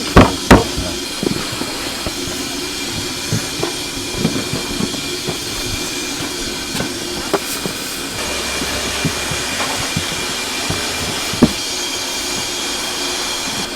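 Steady hiss and hum of a doughnut-frying kitchen, with sharp knocks and clatter twice just after the start and once near the end.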